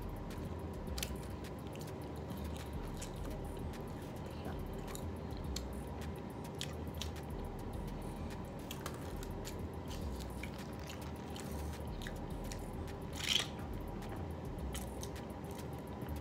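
Chewing and small mouth clicks of a person eating chicken wings, over a steady low hum, with one brief louder sound about thirteen seconds in.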